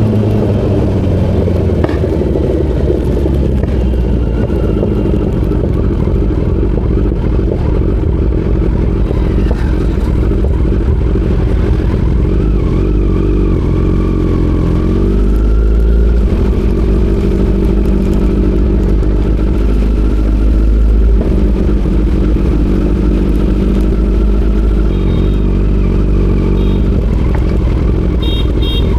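Kawasaki Z900's inline-four engine running on the move, with a heavy, steady rumble of wind on the microphone and the engine note rising and falling with the throttle.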